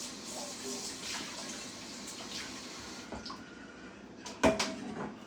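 Water running from a kitchen tap for the first few seconds. About four and a half seconds in comes a sharp knock, the loudest sound.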